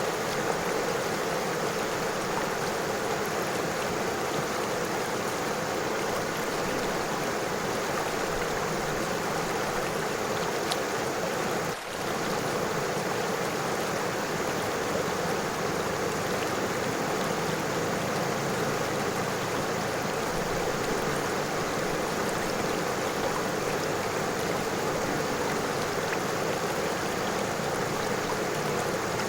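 River water flowing over stones, a steady rushing with no let-up. The level dips for a moment about twelve seconds in.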